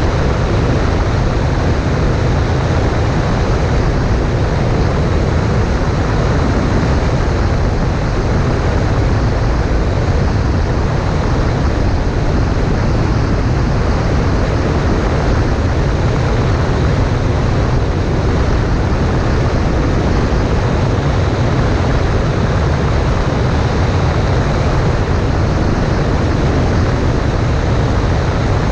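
Cessna 140A light aircraft in flight: steady engine and propeller drone buried in loud, constant wind rush, heaviest in the low end, with no change in power.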